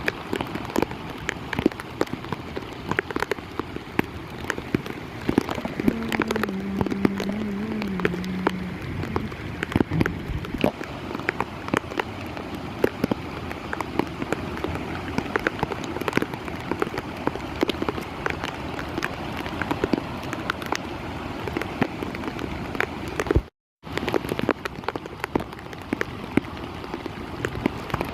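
Heavy monsoon rain falling steadily, with dense sharp drop impacts close by. A brief wavering low tone sounds about six to nine seconds in, and the sound cuts out for a moment near the end.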